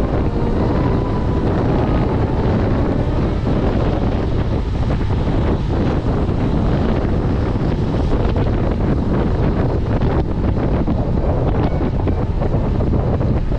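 Wind buffeting the microphone: a loud, steady rumbling roar with a few faint ticks under it.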